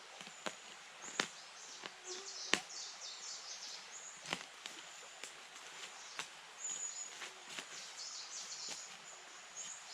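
Small birds chirping, with irregular sharp cracks or snaps, the loudest about two and a half seconds in.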